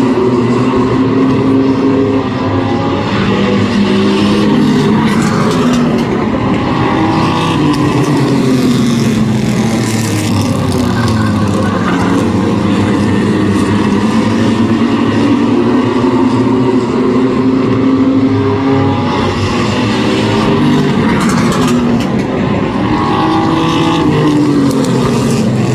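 Race trucks' engines running at speed around a short oval, several engines together, their pitch sweeping down and back up in long, repeating waves as the field brakes into the turns and accelerates out.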